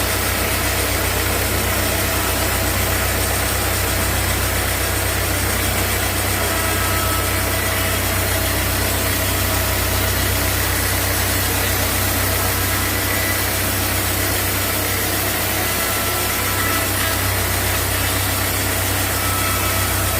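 Sawmill machinery running steadily: a constant engine-like drone with hiss, unchanging in level.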